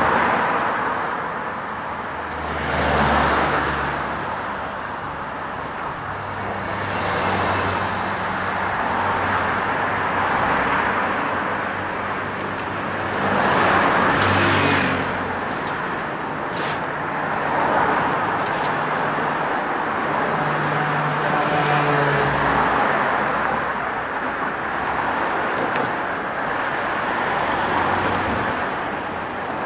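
Road traffic: cars passing one after another every few seconds, each swelling up and fading with tyre noise and a low engine hum.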